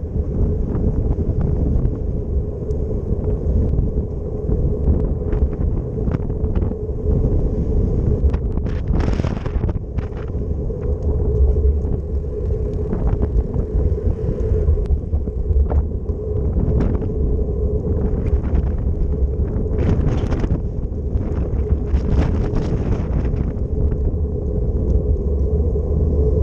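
Wind buffeting the microphone during a bicycle ride: a steady low rumble with a constant hum above it, broken by scattered short clicks and knocks.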